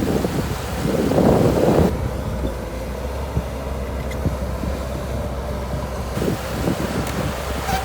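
Bulldozer engine running steadily, with wind buffeting the microphone, heaviest in the first two seconds.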